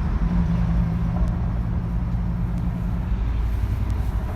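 Steady low rumble of a motor vehicle running close by, with a low steady hum that fades about three seconds in.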